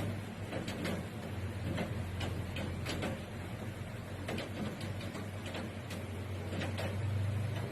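Raindrops in a heavy downpour tapping irregularly on a hard surface close to the microphone, several sharp ticks a second over a steady rush of rain and a low steady hum.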